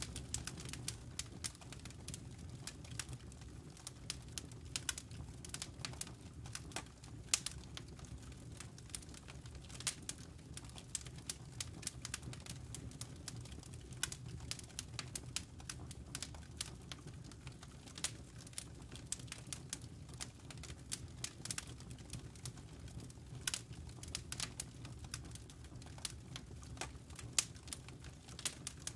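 Campfire burning, its wood and embers crackling with irregular sharp pops and snaps over a steady low rumble of the flames.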